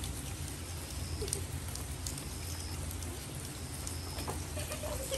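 Steady rain falling on wet pavement, with a low steady rumble underneath.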